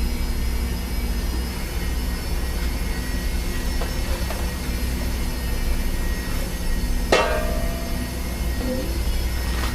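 Steady low hum with a single sharp metallic clang of metal cookware about seven seconds in, ringing briefly.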